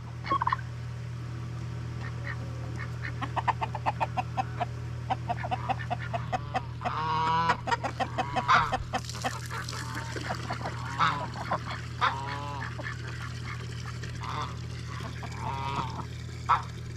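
Domestic waterfowl calling: many short honking calls, some in quick series and a few drawn out, over a steady low hum.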